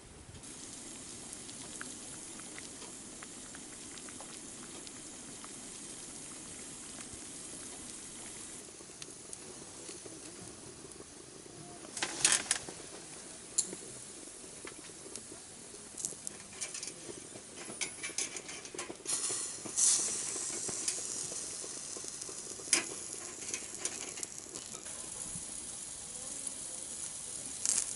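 Food sizzling steadily in a hot pan over a fire. From about halfway through, sharp pops and spits of fat break in, with a few louder cracks.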